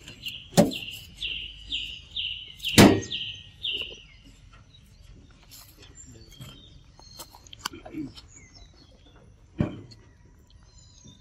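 A bird calling in a quick run of about ten short, falling notes over the first four seconds, then sparser chirps. Two loud, sharp knocks close to the microphone land during the run, and a third comes near the end.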